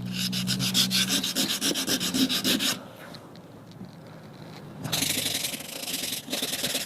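Coarse 40-grit sandpaper rubbed by hand over the varnished oak of a rocking chair, stripping off the finish. Quick back-and-forth strokes come about seven a second for nearly three seconds, then a pause, and longer strokes start again about five seconds in.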